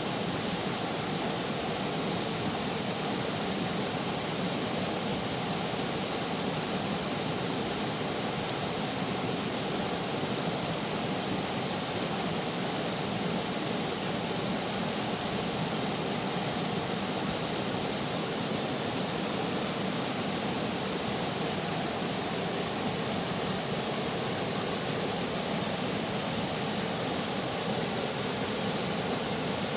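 River water flowing steadily, a constant rushing noise with no breaks or distinct splashes.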